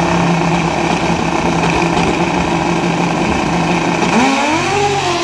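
Racing motorcycle engines running at a steady pitch, then one revs up sharply about four seconds in, its pitch climbing and easing back.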